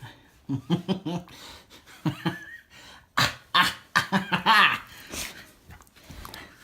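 Caucasian Shepherd puppy growling and yapping in play while it bites, in several short bouts, the loudest from about three seconds in.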